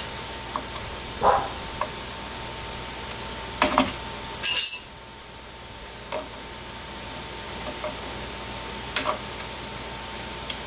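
Sharp snips and metallic clicks as zip ties holding the reassembled drum brake shoes and springs are cut away, with one louder, higher-pitched clink about four and a half seconds in.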